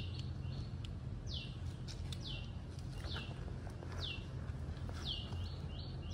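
A bird calling repeatedly, a high whistled note that falls in pitch, about once a second, over a steady low hum.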